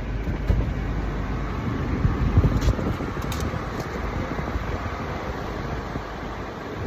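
Automatic car wash running, heard from inside the car's cabin: a steady rush of spray and machinery with a few light knocks about two and a half to three and a half seconds in.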